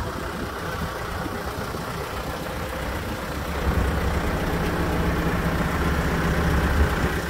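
Hidromek 102S backhoe loader's diesel engine idling steadily, growing louder about halfway through.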